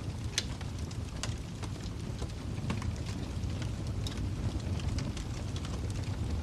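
Wood fire in a fireplace crackling, with irregular sharp pops over a low steady rumble of the flames; the loudest pop comes about half a second in.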